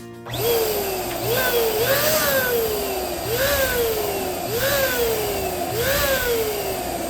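Electric balloon pump running and blowing air into a balloon: a steady rush of air, with a whistling tone that jumps up and slides slowly down again about once a second.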